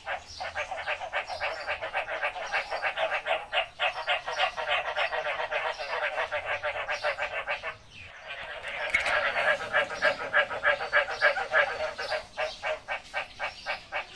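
Frogs calling in a rainy-season chorus: a dense, fast run of pulsed croaks that pauses briefly about eight seconds in and then comes back louder.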